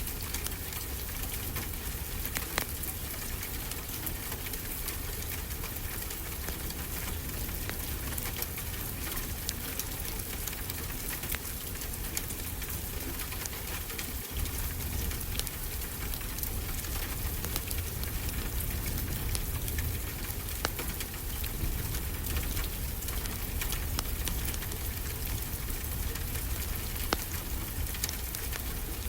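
Steady rain falling, with occasional sharp crackles from a wood fire in a fireplace.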